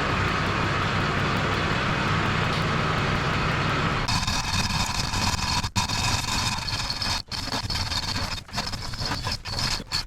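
An engine running steadily. About four seconds in the sound changes and drops out briefly several times.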